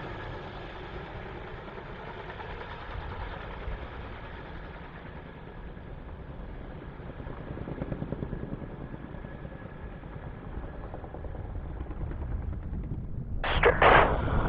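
Distant jet aircraft engine noise slowly fading away, a steady rumble losing its hiss. Near the end, a short burst of air-band radio chatter from a scanner.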